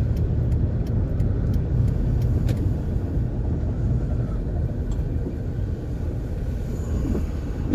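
Van engine and road noise heard from inside the cab while driving, a steady low rumble.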